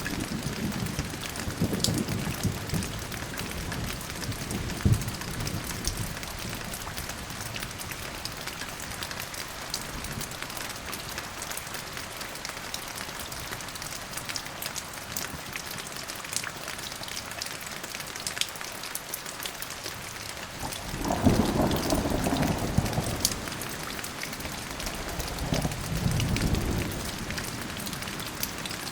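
Thunderstorm: steady rain with a patter of individual drops. Thunder rumbles and dies away in the first few seconds, a louder roll comes about two-thirds of the way through, and a shorter rumble follows soon after.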